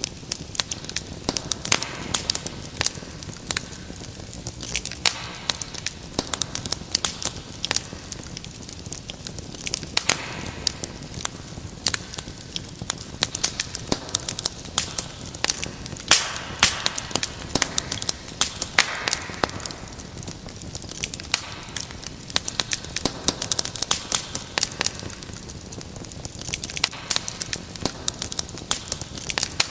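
Fire in a fireplace crackling steadily, with dense irregular pops and snaps and now and then a brief soft hiss.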